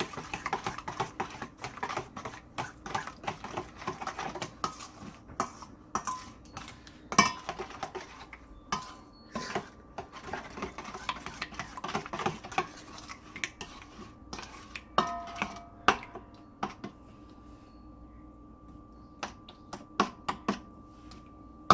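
Spoon stirring a thick yogurt marinade in a bowl, clinking and scraping against the bowl in quick, irregular taps, with a louder knock about seven seconds in.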